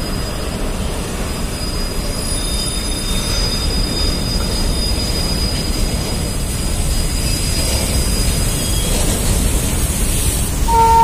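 BCNHL covered freight wagons rolling past on the rails: a steady rumble of wheels on track with thin, high wheel squeal running above it. A train horn starts to sound right at the end.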